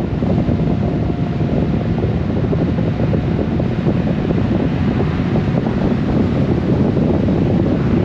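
Steady wind rush buffeting the microphone of a Honda Gold Wing motorcycle riding at road speed, with vehicle and road noise blended underneath.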